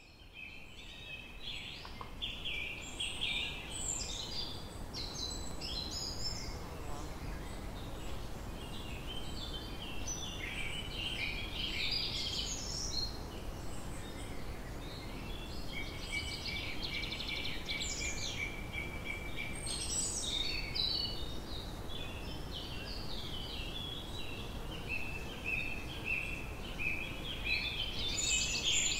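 Birds chirping and singing almost without pause, many short varied calls, over a steady low outdoor background rumble.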